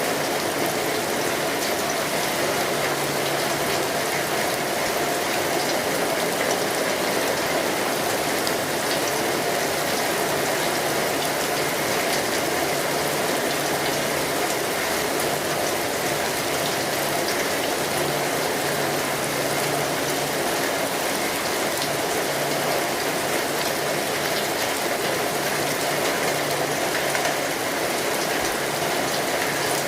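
Steady rainfall: a dense, even patter of raindrops.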